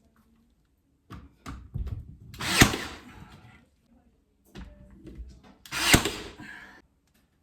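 A nail gun firing twice, about three and a half seconds apart, driving nails into wooden trim: each shot a sharp bang with a short decaying tail, preceded by lighter clicks and knocks.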